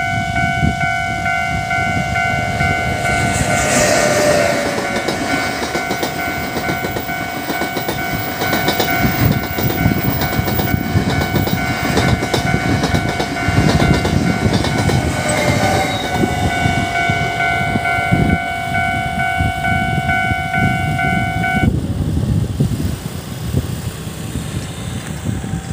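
A Taiwan Railways push-pull Tze-Chiang express train passes through a level crossing, a long run of wheel rumble and clatter over the rail joints. The train's horn sounds about four seconds in and again briefly near the middle. The crossing's electronic warning bell rings steadily over it and cuts off about twenty-two seconds in as the barriers lift.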